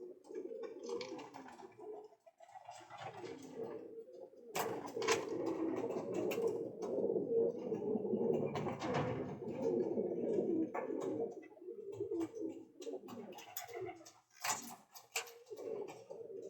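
Many domestic pigeons cooing together in a loft, overlapping low calls that swell for several seconds about a third of the way in, with scattered sharp clicks and flutters.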